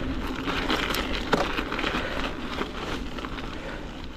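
Strong wind rushing and buffeting the microphone of a moving mountain bike, with a scatter of sharp crackling clicks, easing a little toward the end.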